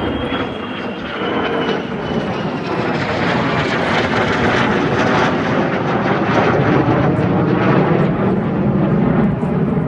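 Military aircraft engine noise: a loud, rough roar that grows louder, with a faint whine slowly falling in pitch as the aircraft passes.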